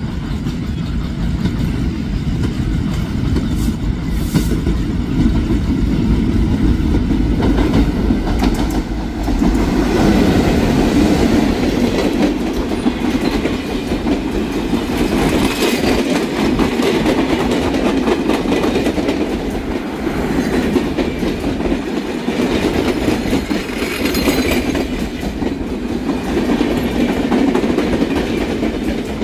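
A train running through a level crossing: the steady rumble of its cars, with the clickety-clack of the wheels over the rail joints.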